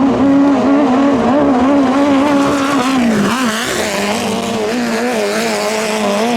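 Engine of a 5K-class racing longtail boat running hard at high revs, its pitch wavering, with a brief dip in revs about three seconds in before it settles a little lower.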